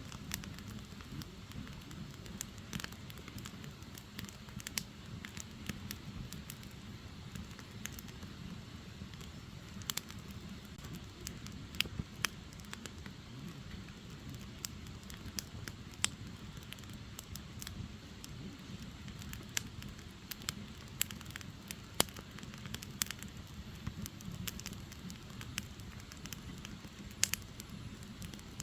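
Firewood burning: a steady low rush of flame with frequent sharp crackles and pops, a few of them louder snaps.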